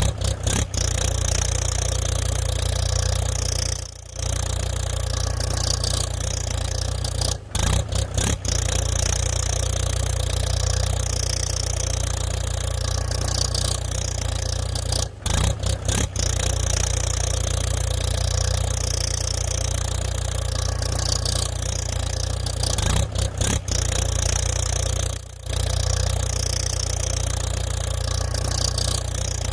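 A small engine of a homemade mini tractor model running steadily, with a few brief breaks where the sound cuts out and resumes.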